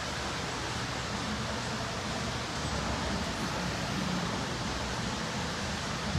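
Steady rushing background noise with a low rumble underneath, as heard aboard a tour boat on an indoor river.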